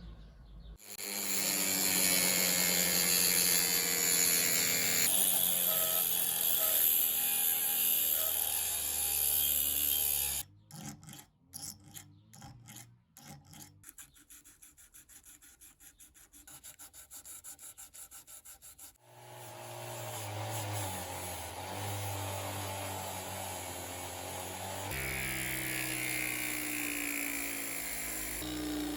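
Workshop abrasive work: a power tool running steadily while it sands or grinds for about ten seconds. Then comes a quieter stretch of rasping strokes, irregular at first and then fast and even. The power tool's steady running and rubbing returns for the last ten seconds.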